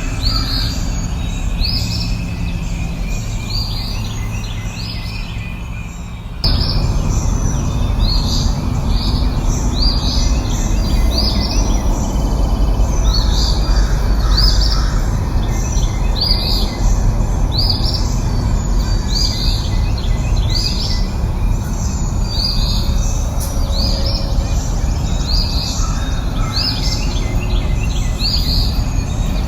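Songbird chirping, short falling notes repeated about once a second, over a steady low rushing background that gets abruptly louder about six seconds in.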